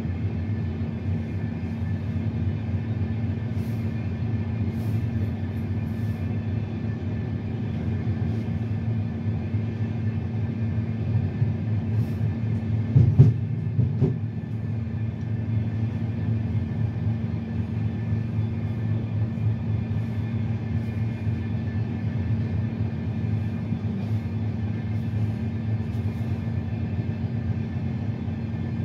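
Running noise of a moving passenger train heard from inside its last coach: a steady rumble of wheels on rail with a constant low hum. A short cluster of louder knocks comes about thirteen seconds in.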